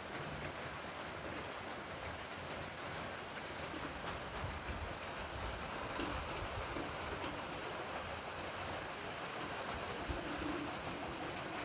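Steady rain falling, an even hiss without letup.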